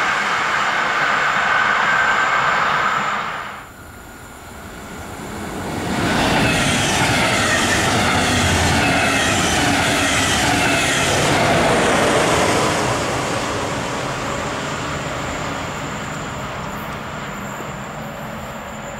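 A container freight train's wagons running away along the rails, fading out in the first few seconds. Then a red double-deck passenger train passes close, loud steel wheels on rail with a whine that falls in pitch as it goes by, and slowly fades into the distance.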